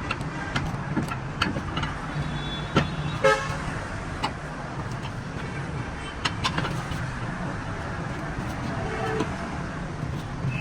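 Roadside traffic noise: a steady low engine rumble with scattered light knocks, and a short vehicle-horn toot about three seconds in.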